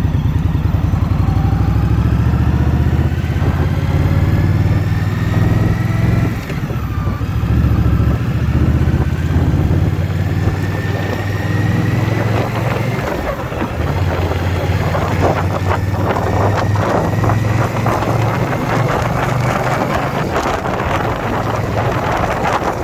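A 2021 Indian Scout Bobber Twenty's V-twin engine pulling under acceleration while riding, its pitch rising, dropping briefly about six seconds in at a gear change, then climbing again. Wind buffeting on the microphone builds in the second half.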